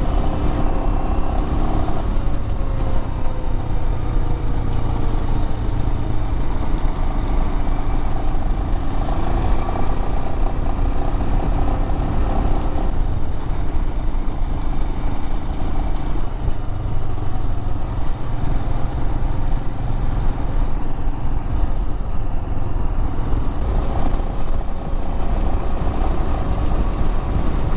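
Adventure motorcycle engine running steadily under way, its pitch drifting slowly down and up as speed changes, over a dense low rumble of road and wind noise.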